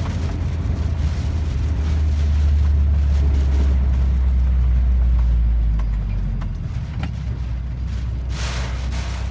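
Typhoon wind buffeting, heard as a deep rumble that swells about two seconds in, holds, and eases about six seconds in. A brief rushing hiss of a gust comes near the end.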